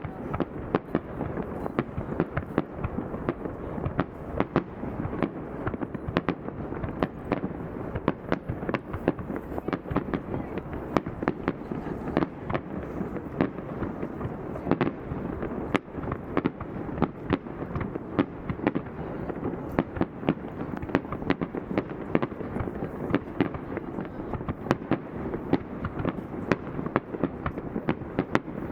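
Fireworks display going off in a dense, continuous barrage: many sharp bangs and crackles, several a second, over a steady rumble.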